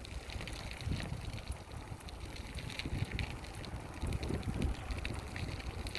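Wind buffeting the microphone while riding a bicycle: a gusty low rumble with scattered light clicks.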